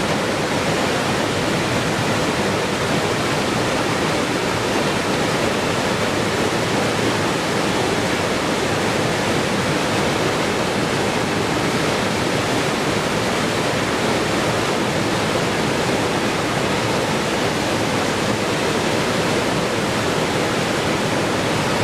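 Rushing water, a waterfall or fast stream, making a steady, even hiss with no changes.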